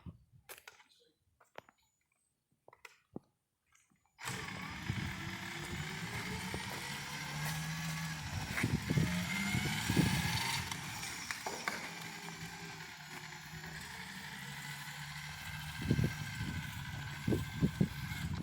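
Sidewinder aircraft tug starting up about four seconds in, after a few faint clicks, then running steadily with a low hum and a higher whine.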